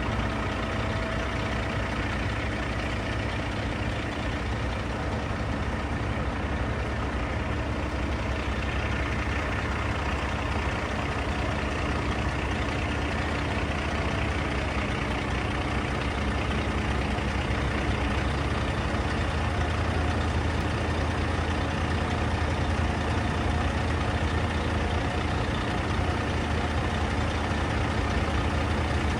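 Heavy diesel engines of recovery machinery running steadily at a low hum, with no change in pace.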